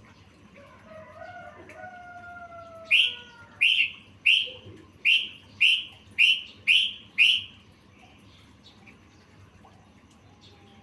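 A bird calling: faint drawn-out whistled notes, then, starting about three seconds in, a run of eight loud, sharp chirps at about two a second.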